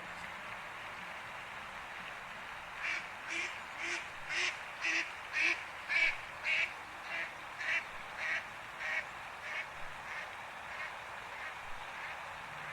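An animal calling in a rapid series of about twenty short, evenly spaced calls, about two a second, growing louder and then fading away.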